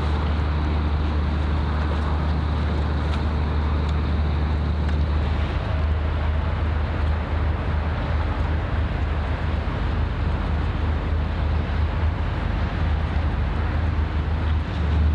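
Steady low engine drone of a ship passing on the water, with wind and outdoor noise over it.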